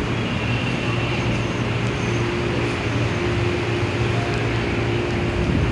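JNR Class DE10 diesel-hydraulic locomotive's V12 diesel engine running steadily under load while hauling a freight train, a low, even drone over the rumble of the train.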